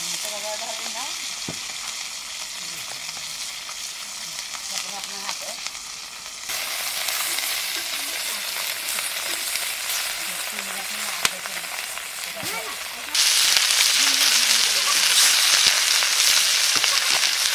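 Oil sizzling steadily in a pan as ingredients for a small-fish curry fry. The sizzle jumps louder suddenly twice, about six and about thirteen seconds in.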